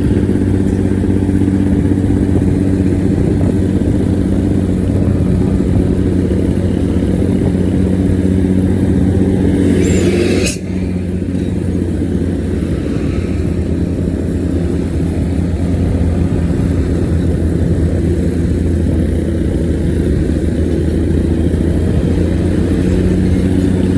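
Bus engine running steadily with the deep, growling exhaust note the uploader calls 'ngorok' (snoring). A brief hiss rises and then stops abruptly about ten seconds in.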